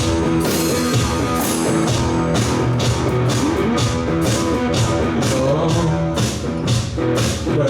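Live rock band playing an instrumental stretch without vocals: electric guitar and bass riff over a steady drum beat with regular cymbal strokes.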